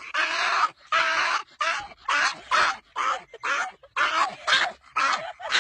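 A dog making a rapid string of short vocal sounds, about a dozen in a row, each bending in pitch.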